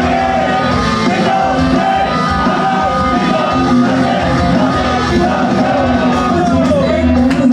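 Live pop performance: a singer's voice over a loud, amplified band or backing track, playing without a break.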